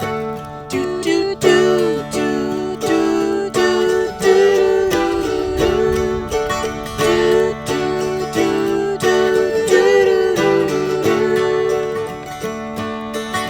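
Instrumental music on a plucked acoustic string instrument, picking a steady run of notes over sustained lower tones.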